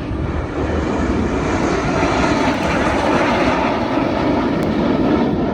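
Jet aircraft engine noise from a plane flying past: a loud, steady rushing roar that swells over the first couple of seconds and then holds.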